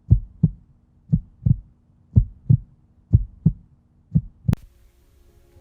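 Heartbeat sound: five slow lub-dub double beats, about one a second, low and thudding. The last beat ends in a sharp click about four and a half seconds in.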